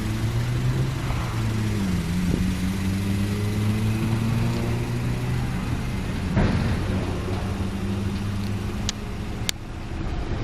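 Honda Accord four-cylinder engine idling with a steady low hum, its pitch dipping briefly about two seconds in. A short, louder rush of noise comes a little past the middle, and two sharp clicks come near the end.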